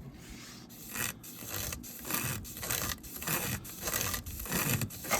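Wet-and-dry sandpaper on a webbing strap rubbing back and forth around a crankshaft connecting-rod journal, in quick rhythmic strokes of about two a second: hand polishing of the journal.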